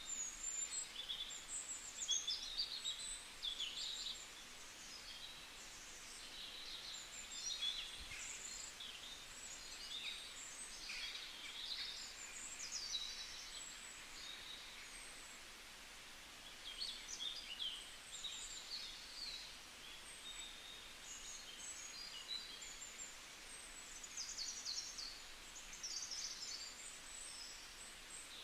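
Small birds chirping: clusters of quick, high chirps and twitters that come and go over a faint steady hiss.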